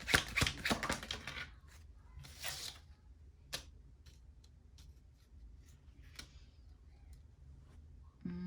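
Tarot cards being shuffled in the hands, a quick run of clicks that stops after about a second and a half, then a short soft slide and a few scattered light taps as cards are drawn and laid down.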